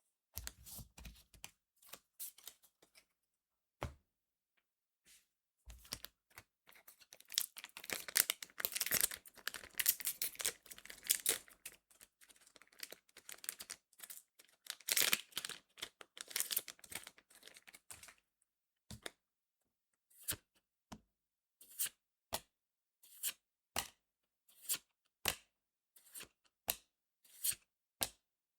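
A foil trading-card booster pack torn open and crinkled, then the cards handled one at a time: a steady series of short, crisp snaps, a little over one a second, as each card is flicked to the back of the stack.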